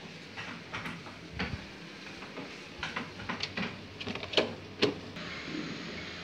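Plates and cutlery clinking and knocking as they are set down, a string of sharp clacks with two loud ones near the end. A steady hiss starts about five seconds in.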